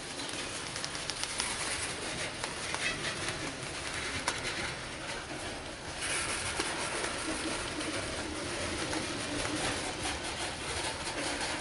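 Freight train of coal cars rolling past, a steady rail-noise rush with scattered light clicks; the sound shifts brighter about halfway through.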